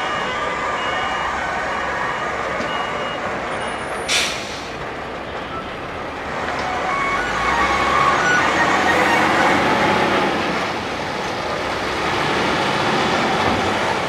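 Heavy lorry manoeuvring. Its reversing beeper repeats for the first few seconds, and a short, sharp hiss of air-brake release comes about four seconds in. After that the diesel engine runs louder for a few seconds, then settles.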